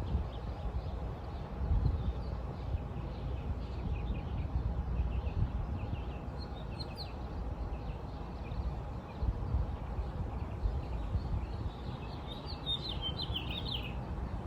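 Small birds chirping and twittering, with a louder flurry of calls near the end, over a steady low rumble.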